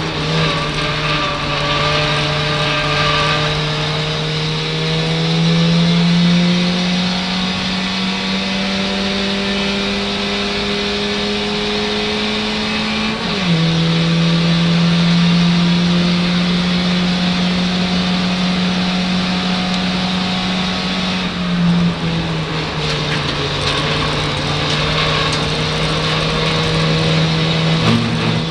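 Ford Fiesta race car's engine heard from inside the cabin under full load. The note climbs slowly, drops sharply at a gear change about halfway through, climbs again, and drops once more about three-quarters of the way in, with a short blip near the end.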